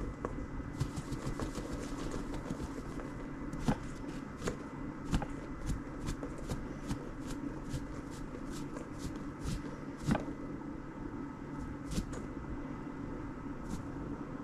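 Plain flour being weighed out: a run of small, irregular taps and rustles with a few sharper clicks, over a steady low hum.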